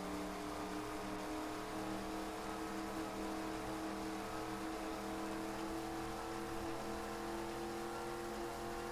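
Boat's motor running steadily at speed, its pitch creeping slowly upward, over an even rushing noise.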